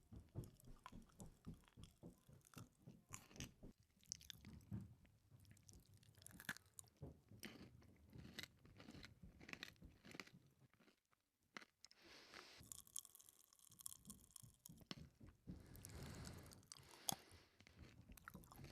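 Quiet close-up chewing of a mouthful of peanut butter with popping candy, with many small clicks and crackles throughout.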